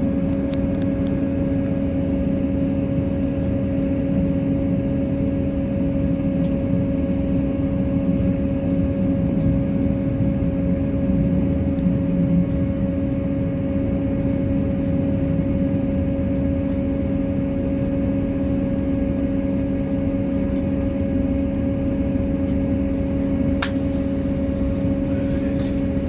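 Train running at steady speed: an even, unchanging drone with a few faint clicks.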